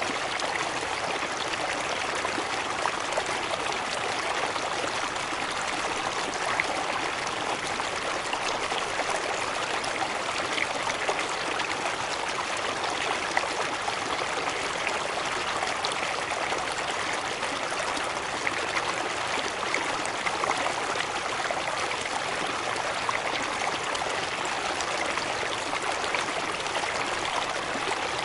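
Running water, a stream or small waterfall, rushing steadily with small splashes.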